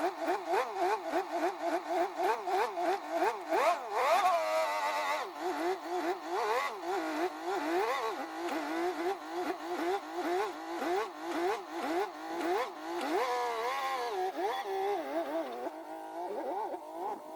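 Diesel engine of a 1985 Ford CL9000 cabover semi truck running under throttle, its pitch rising and falling rapidly over and over. It thins out and fades near the end.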